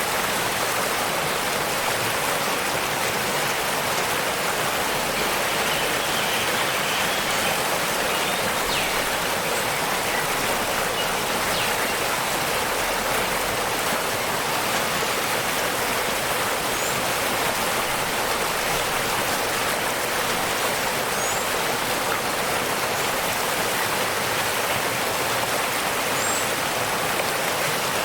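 Waterfall: a steady rush of falling water. A few faint, brief bird chirps sound high above it now and then.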